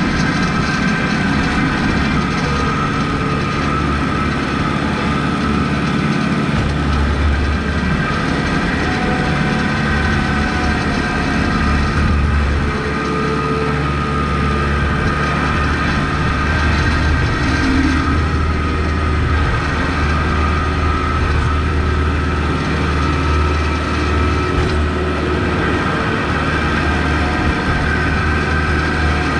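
Kubota MX5200 tractor's four-cylinder diesel engine running steadily while plowing snow, a continuous low drone whose deepest note shifts slightly a few times as the load changes.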